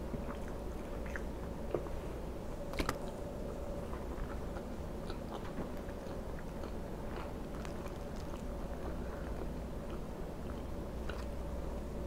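Close-miked chewing of soft pancake and fried egg, with many small wet mouth clicks, the sharpest about three seconds in, over a steady low hum.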